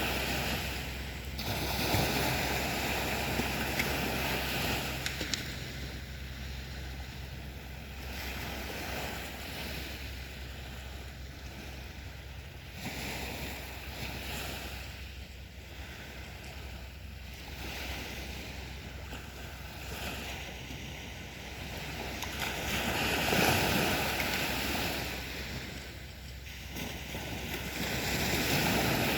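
Sea waves breaking and washing on a beach, rising and falling in slow swells, the largest about two-thirds of the way in and again near the end, with some wind on the microphone.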